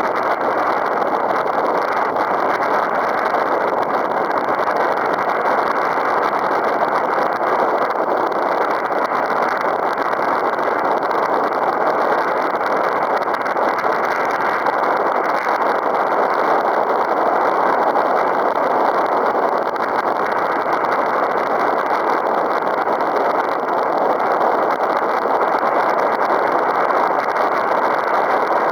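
Strong wind blowing across the microphone: a loud, steady rushing noise with no breaks.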